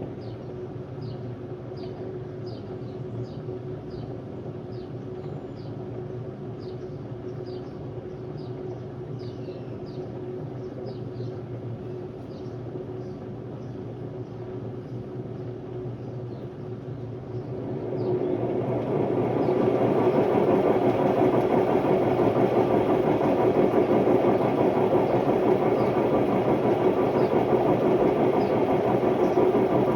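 Hotpoint Ultima WMD960 washing machine spinning: a steady hum with a light regular ticking, then about eighteen seconds in it picks up speed and becomes much louder and harsher, holding at that level. The noise is from bad drum bearings.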